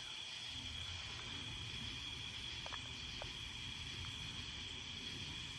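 Steady high-pitched chorus of night insects, such as crickets, trilling without a break, over a faint low background hiss, with a few faint ticks.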